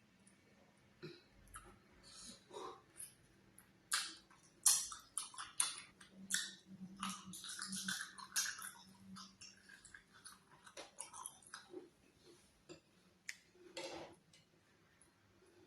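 Close-miked eating of ogbono soup and oatmeal fufu: wet chewing and mouth smacks in a run of sharp clicks, busiest in the middle.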